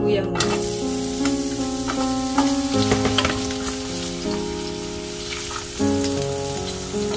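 Sliced ginger sizzling as it fries in hot oil in a nonstick wok, stirred with a spatula. Background music plays underneath.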